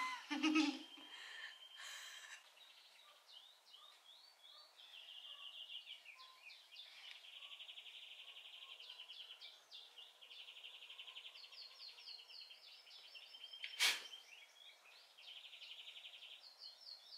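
A small songbird chirping faintly, with runs of short falling notes and fast high trills. There is one sharp click near the end.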